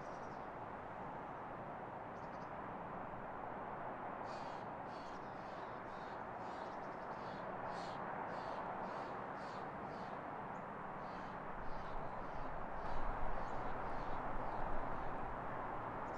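A bird calling over and over in short high chirps, about two a second for several seconds, over a steady outdoor hiss. Near the end come a few dull bumps.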